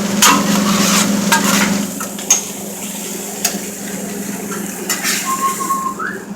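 Restaurant kitchen clatter: metal utensils and pans knocking and scraping, with several sharp knocks scattered through, over a steady hum.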